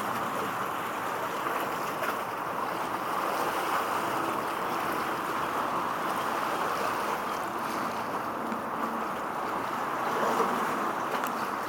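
Steady rush of water and wind. A faint, low boat-engine drone sits underneath it in the later part.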